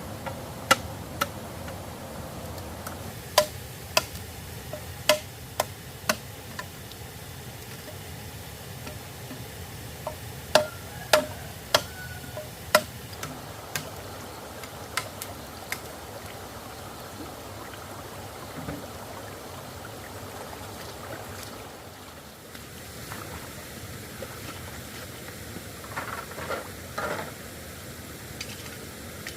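Scattered sharp knocks, several in the first few seconds and another run about ten to thirteen seconds in, over a steady background noise.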